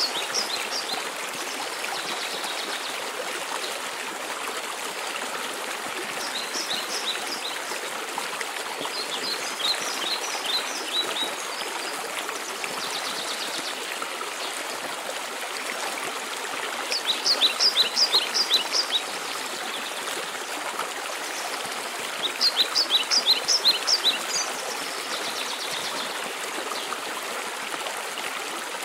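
Steady rush of a waterfall, with a songbird singing short phrases of quick, high, falling notes several times, some followed by a brief buzzy trill.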